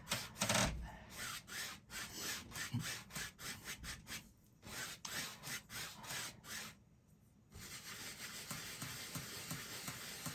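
A small paintbrush scrubbing paint onto a stretched canvas in quick repeated strokes, pausing for a moment about two-thirds of the way through.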